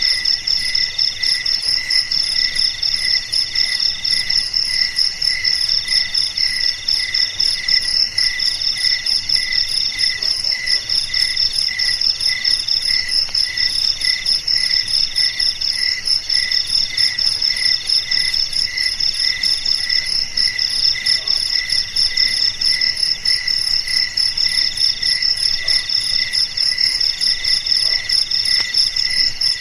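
Crickets chirping in a continuous night chorus: several overlapping pulsed trills at different pitches, steady throughout, with one higher voice in repeated short phrases.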